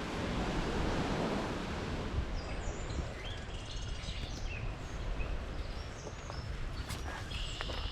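Songbirds singing short, high phrases from about two seconds in, one a buzzy trill near the end. Underneath is a rushing wind noise with low rumble on the microphone that eases after the first two seconds, and a few sharp clicks.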